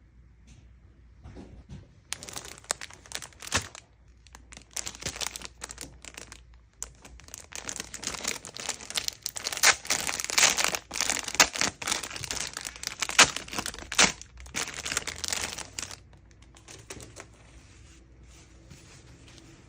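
Plastic packaging being handled and opened by hand: dense, irregular crackling from about two seconds in, loudest in the middle, stopping about four seconds before the end.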